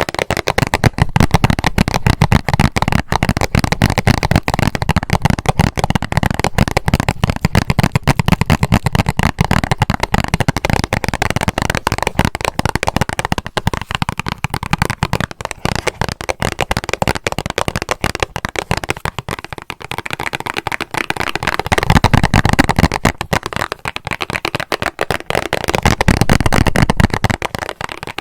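Fast, continuous tapping on a band-aid box, a dense stream of small clicks, with heavier, fuller stretches about 22 and 26 seconds in.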